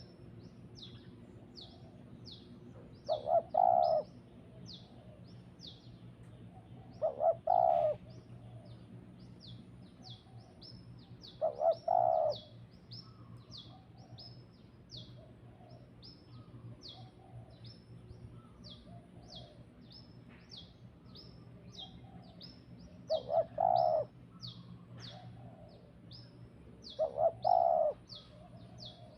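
Birds calling. Short bursts of louder, lower-pitched calls of a few notes each come about every four seconds, with a longer gap midway, over a steady run of quick, high, falling chirps about twice a second.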